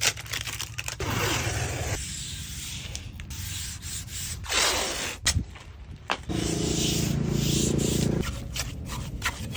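Masonry trowel scraping and spreading cement mortar on clay bricks, a series of rough scrapes with a longer, heavier grinding scrape late on.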